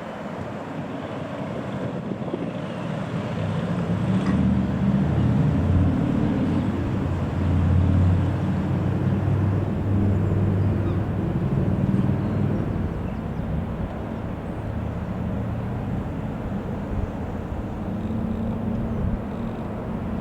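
Piper PA-28-161 Warrior II's single four-cylinder Lycoming O-320 piston engine running with a steady propeller drone. It grows louder about four seconds in, is loudest around eight seconds, then eases slightly and holds.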